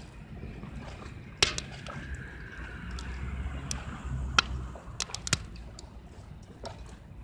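Wood fire burning in a rocket stove made from a cut-open 18-litre square steel can: a low steady rumble with a few sharp crackling pops, the loudest about a second and a half in and just after four seconds.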